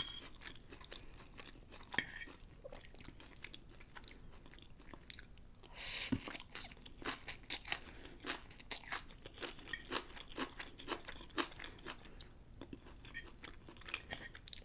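Close-miked chewing of a mouthful of pancit bihon rice noodles with pork: a steady run of small wet clicks and crunches, with a louder click about two seconds in and a brief noisy burst about six seconds in.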